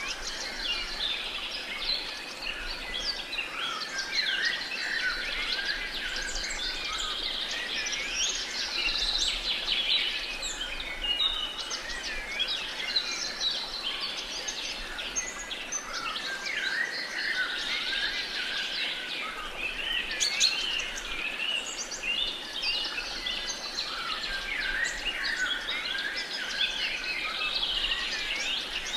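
A dense chorus of many songbirds singing and chirping at once, with overlapping short calls and trills that run on without a break.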